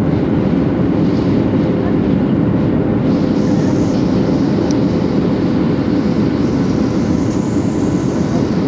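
Loud, steady roar of an airliner's engines and rushing air, heard from inside the cabin, with a faint steady hum underneath and a thin hiss joining about three seconds in.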